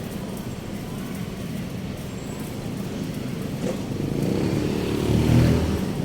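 A motor vehicle passes close by on the road: its engine grows louder to a peak about five seconds in, then begins to fade, over a steady background of traffic.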